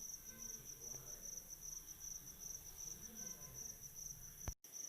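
Faint, steady, fast-pulsing high chirping of a cricket, which cuts out for a split second near the end.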